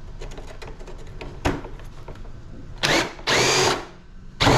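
Power drill backing out a rusty screw from an air conditioner's housing in short bursts. There are a few small clicks first, then a brief burst about three seconds in, a longer one just after it, and another short burst at the end.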